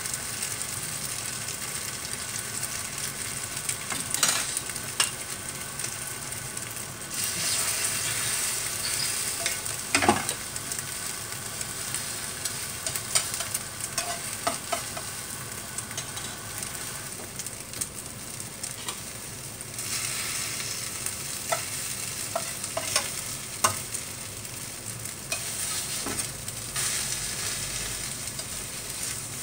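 Egg-and-anchovy fritters (tortang dilis) frying in oil in a nonstick pan, a steady sizzling hiss that swells and fades. Scattered sharp clicks and scrapes come from a slotted spatula against the pan.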